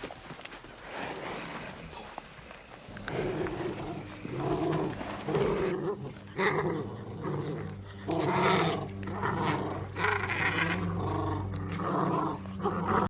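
A dog growling and giving short repeated calls, one after another, over a steady low hum; the calls start about three seconds in.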